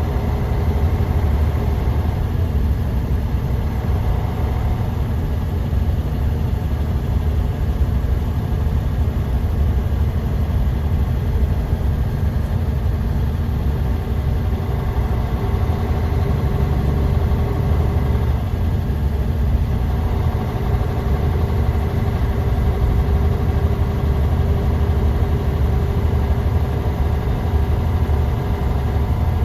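Bus engine running, heard from inside the cabin as a steady, loud low rumble. A faint steady whine joins in about halfway through.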